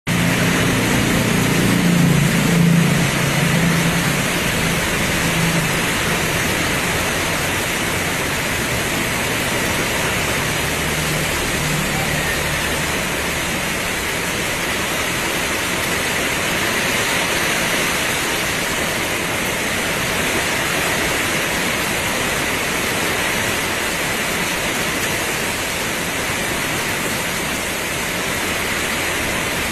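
Heavy rain pouring steadily. A low vehicle engine rumble sits under it for the first few seconds, then fades.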